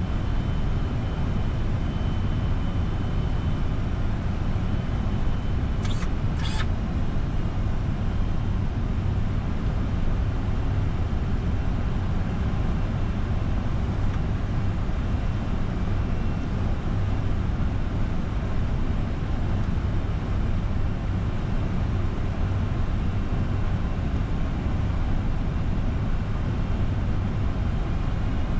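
Steady flight-deck noise of a Boeing 747-400 freighter on final approach: a rush of airflow over a low engine rumble. Two short clicks come about six seconds in.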